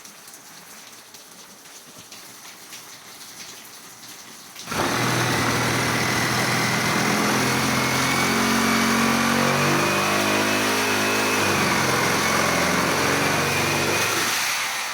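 A loud motor starts suddenly about five seconds in and runs steadily with a low hum and a high whine, fading away near the end.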